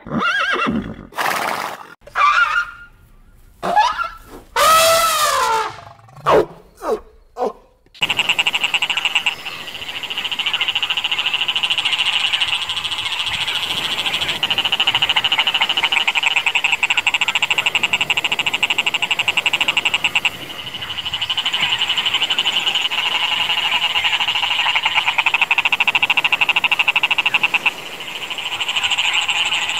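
A few loud zebra calls with bending pitch, then, from about eight seconds in, a dense chorus of croaking frogs: fast, rattling trills that go on with brief dips now and again.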